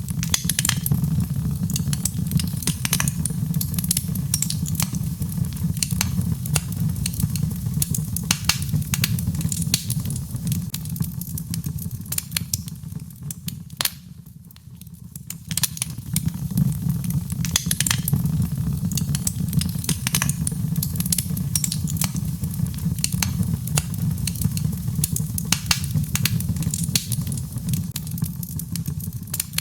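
Birchwood fire burning in a fireplace: frequent sharp crackles and pops over a steady low rush of the flames. The low rush drops away for a moment about halfway through, then returns.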